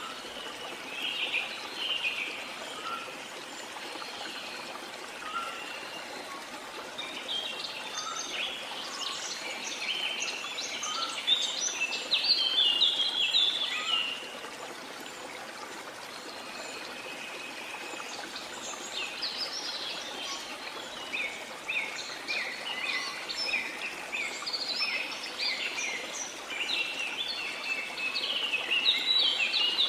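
Steady rushing of a waterfall with many birds chirping over it. The chirping is a fast jumble of short high notes that grows busy in two long spells, in the middle and toward the end.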